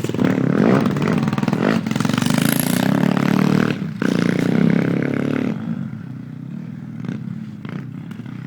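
Pit bike's single-cylinder engine revving hard, its pitch rising and falling, with a brief cut about four seconds in. It drops quieter about halfway through as the bike pulls away.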